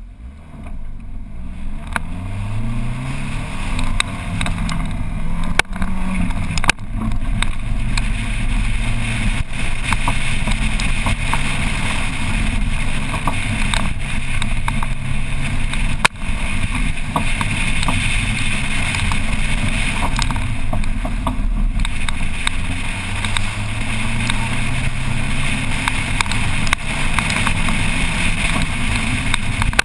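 Car engine launching from a standstill and accelerating hard, its pitch climbing in steps through the gears, then running at rising and falling revs through a course of tight turns, with wind rushing over the hood-mounted microphone and a few sharp knocks.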